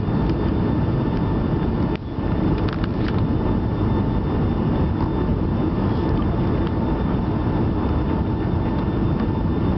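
Steady cabin noise inside a Boeing 757-232 airliner coming in to land: a deep, even rumble of engines and rushing air with a faint steady whine above it. A brief click comes about two seconds in.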